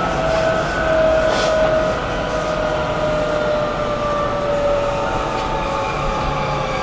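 Sendai City Subway 1000N-series train heard from inside the car: steady running noise with a motor whine that slowly falls in pitch as the train slows.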